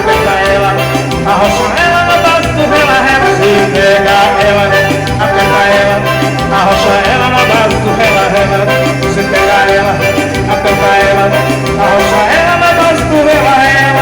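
Forró band playing an instrumental passage between sung lines, with a repeating bass line under a melody line.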